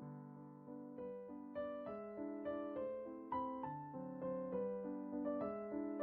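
Background piano music: soft, slow notes, growing louder about a second in.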